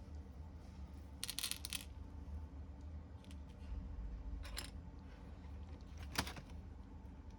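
Small hard clinks and clicks of parts or tools being handled: a short rattle about a second in, then two single clicks later, over a low steady hum.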